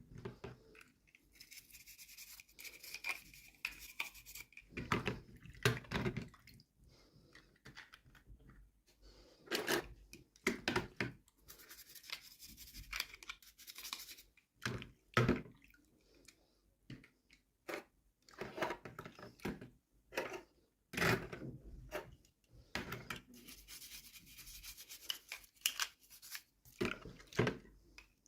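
Toy packaging being opened by hand: rustling, rubbing and tearing of wrappers, with irregular sharp clicks and knocks of plastic pieces.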